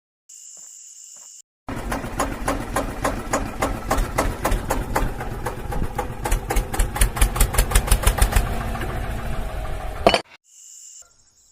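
Small engine chugging with an even beat, picking up to about seven beats a second before it cuts off suddenly. A short high hiss comes just before it and again just after.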